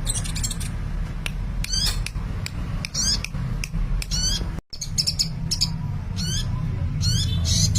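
A small sunbird chirping busily: quick, high, sharply sweeping notes repeated several times a second, over a steady low hum. The sound drops out for an instant just past halfway.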